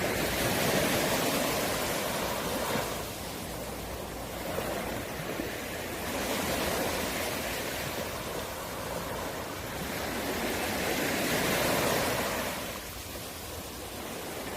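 Sea waves washing onto the shore, a steady rush of surf that swells and ebbs about three times.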